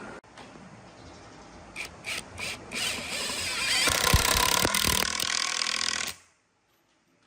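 A handheld power tool working wood: three short bursts, then a steady run of cutting or abrading against the wood that stops abruptly.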